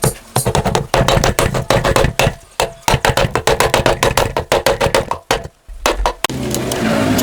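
A rapid, uneven series of sharp knocks and taps, like hand tools at work on metal. About six seconds in, they give way to a steady running sound.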